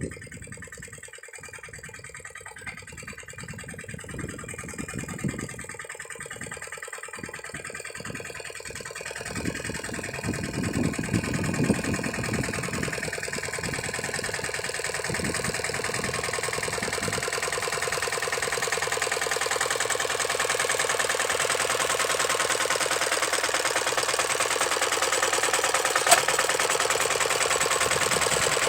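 Lombardini diesel engine of a two-wheel walking tractor running, with uneven low thuds at first, then a steady run that slowly grows louder. One sharp click comes near the end.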